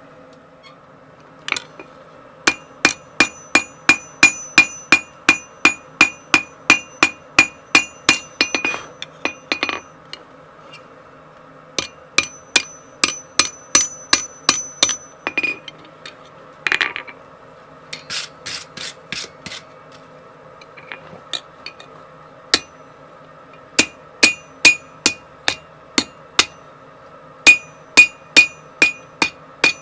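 Blacksmith's hammer striking steel on an anvil in runs of about three blows a second, each blow ringing, with short pauses between the runs.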